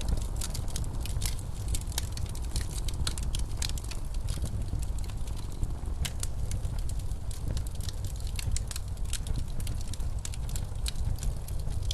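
Wood fire crackling in a fireplace, with dense irregular pops and snaps, over a steady low rumble of blizzard wind.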